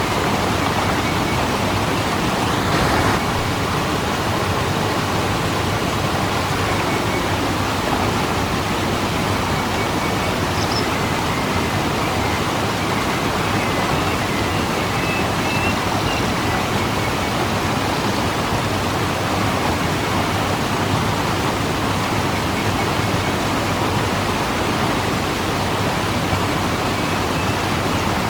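Waterfall rushing: a steady, even wash of falling water, swelling slightly for a moment about three seconds in.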